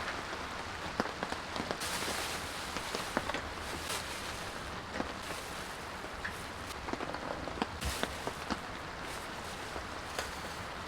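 Steady rain hissing, with many irregular sharp taps of individual drops hitting a surface close by.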